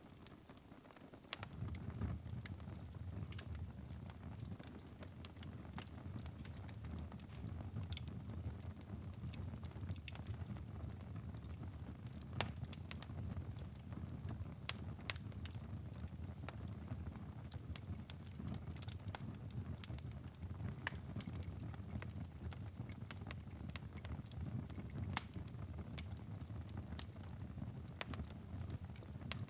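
Wood fire burning in a fireplace: a low steady rumble of flames with irregular sharp crackles and pops from the burning logs. The rumble is briefly weaker about a second in, then steady.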